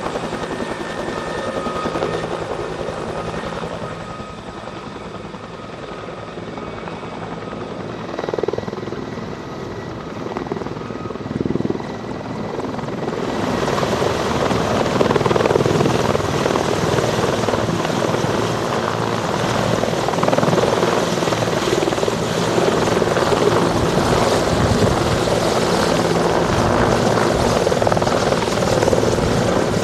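Military turbine helicopter in flight, its rotor and engine noise steady and growing much louder about halfway through.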